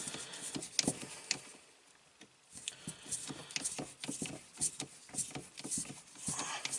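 Scattered light clicks, taps and knocks of plumbing parts being handled while drain hoses are fitted, with a short lull about two seconds in.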